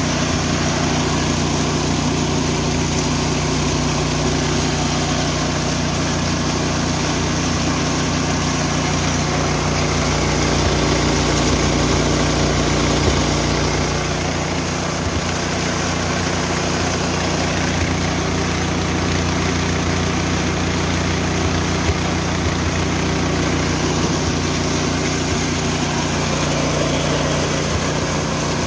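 Richi KD 350 rice and corn milling machine running steadily, driven by its small petrol engine. The note shifts slightly about halfway through.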